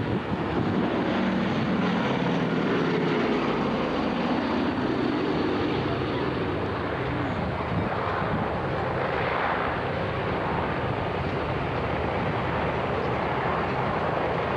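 Boeing B-17 Flying Fortress flying by, its four Wright Cyclone radial piston engines running with a steady propeller drone.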